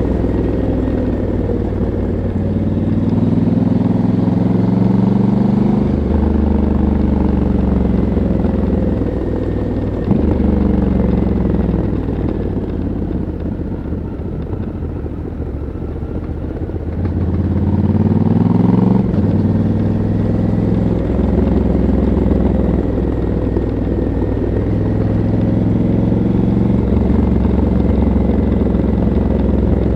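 Stock 2022 Honda CRF1100L Africa Twin's parallel-twin engine and exhaust heard on board while riding at moderate speed. The revs rise and fall with several abrupt steps, as on gear changes. There is a quieter stretch of falling revs midway, then a short rising pull at about two-thirds of the way through.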